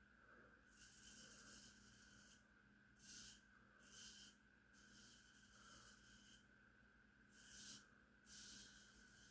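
Razor strokes scraping stubble off the scalp during a head shave with a 1986 Gillette Super Speed double-edge safety razor. There are about six raspy strokes: a few short ones and a couple that last over a second.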